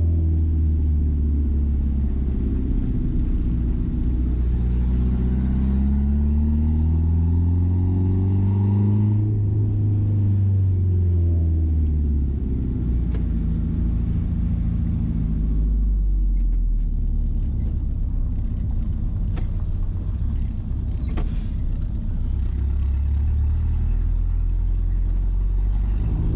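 Mazda B-series pickup's fuel-injected engine and exhaust under way, the revs climbing steadily for several seconds, then dropping and settling into a steady cruise.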